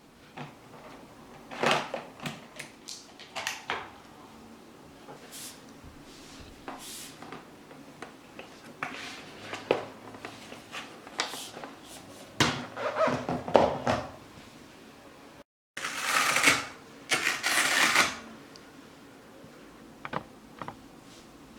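Handling sounds of a cordless mop and its plastic parts: irregular clicks, knocks and rustles. There is an abrupt cut about two-thirds of the way through, followed by two rushing noises of about a second each.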